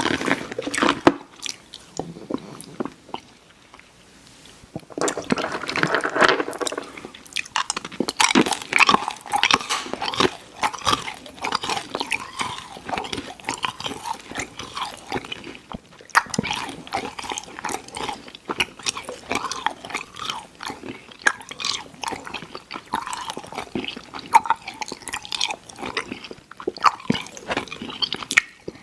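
Close-miked mouth chewing of Airheads Xtremes sour chewy candy: a dense, steady run of small smacking clicks that eases off briefly a couple of seconds in, then carries on.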